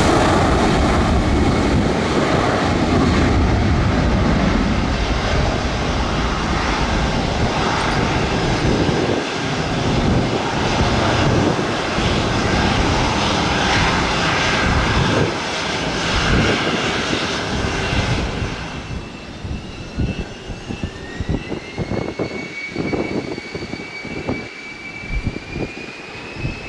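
Airliner engines running loud and close as the aircraft moves on the runway, easing off about 18 seconds in. Then a thinner engine whine rises slowly in pitch, with irregular low thumps.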